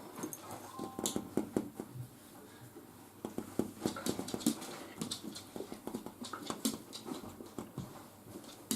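Scattered light knocks and clatter of books and items being handled and set into a cabinet, with a pet dog whimpering.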